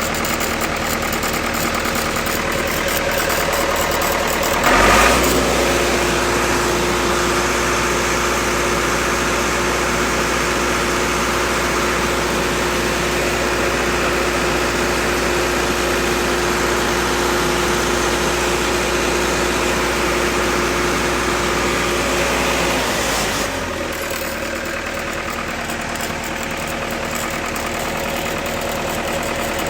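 Lincoln SAM 400 welder's engine running steadily at idle. About five seconds in, a brief clunk comes, and a deeper hum with a steady whine joins the engine. Both drop away again about 23 seconds in.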